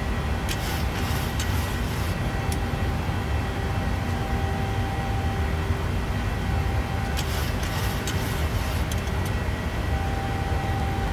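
Boeing 737 cabin noise in the climb: a steady rumble of engines and airflow with faint steady tones above it. Faint high crackles come twice, about half a second in and again about seven seconds in.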